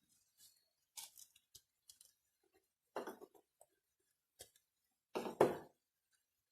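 Kitchen handling sounds while cooking: a few short, separate knocks, clinks and scrapes of utensils and cookware, the loudest near the end.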